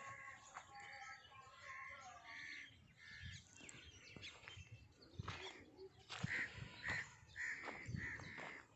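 A bird calling in two runs of short repeated calls, one near the start and one about six seconds in, about two calls a second.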